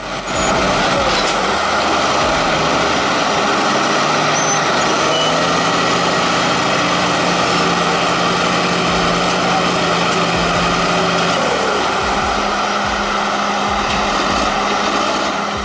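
Crawler bulldozers' diesel engines running hard under load as the machines push against each other: a loud, steady engine drone with a low hum that fades about eleven seconds in.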